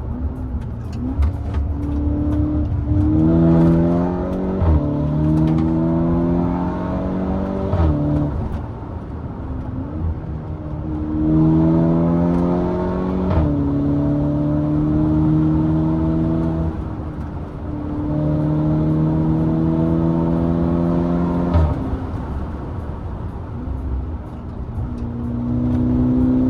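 VW Golf GTI MK6 Edition 35's turbocharged 2.0 TFSI four-cylinder, breathing through a decat downpipe, accelerating hard through the gears. Four times the engine note climbs and then drops abruptly on a DSG upshift, each shift marked by a sharp crack, the 'DSG fart'.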